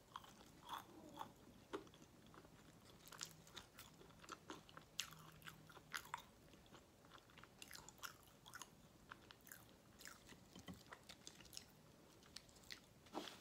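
Faint close-miked chewing of a fried potato wedge: soft, irregular crunches and mouth clicks.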